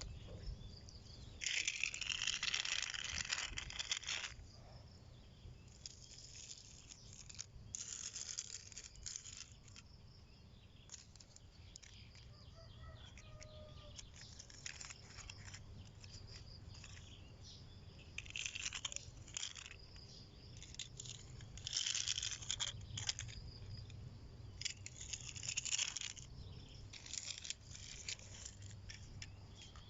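Metal toy construction vehicles pushed and scraped over rough ground, giving rustling, grinding bursts of one to three seconds several times.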